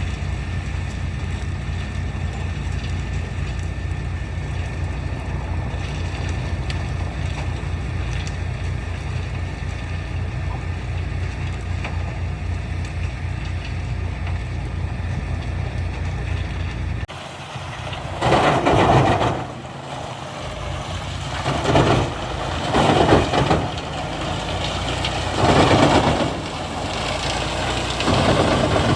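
Heavy diesel engine running steadily with an even low pulse. After a cut about two-thirds of the way through, four loud, short rushing bursts over a quieter background.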